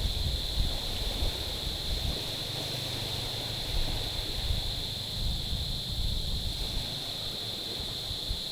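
Gentle waves lapping on a stony, pebbly shore, with uneven low wind rumble on the microphone and a steady high-pitched drone over it.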